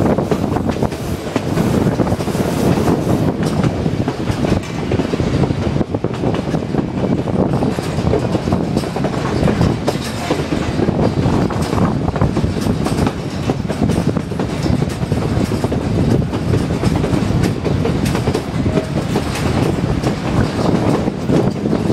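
White Pass & Yukon Route narrow-gauge train cars rolling along the track, heard from on board: a loud, steady rumble of wheels on rails.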